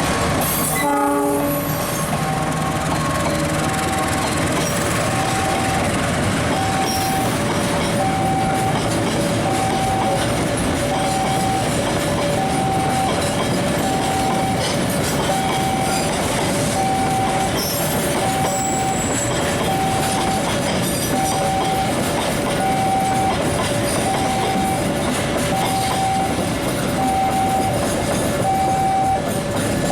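A train running through the station, its wheels and carriages clattering steadily. Over it a two-tone warning alarm rings on and off, a higher and a lower tone taking turns at a steady pace, typical of an Indonesian level-crossing alarm.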